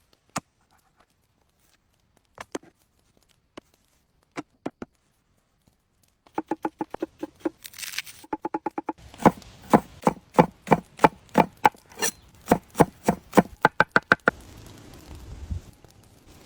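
A knife chopping food: a few scattered knocks, then from about six seconds in a long run of quick, even chops, about three to five a second, that stops a little after fourteen seconds.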